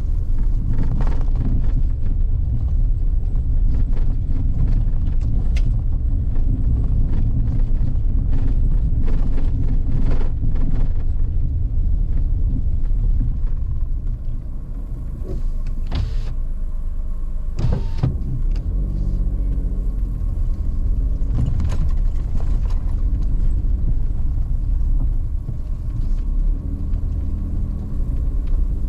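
Car driving along a forest road: a steady low rumble of engine and tyres, with scattered knocks and clicks over it.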